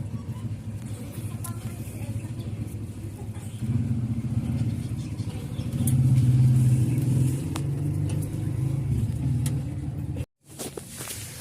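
A motor vehicle's engine running steadily, getting louder about a third of the way in and again just past halfway, then cut off abruptly near the end.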